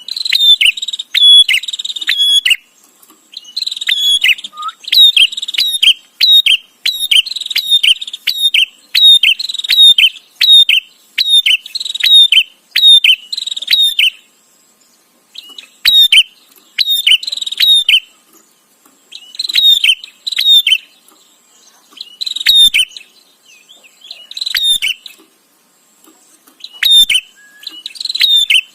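Prinia (prenjak) calling in fast runs of sharp, scolding chirps, in bursts of a few seconds broken by short pauses.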